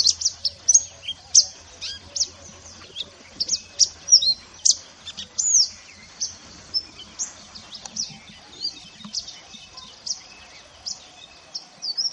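Mantenan gunung songbird singing a fast, busy song of high, thin chirps and short sweeping whistles, several notes a second without a break: a masteran recording played to teach other songbirds.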